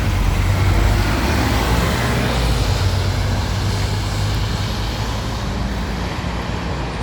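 Scania E400 double-decker bus running: a steady low engine hum over road noise, easing slightly towards the end.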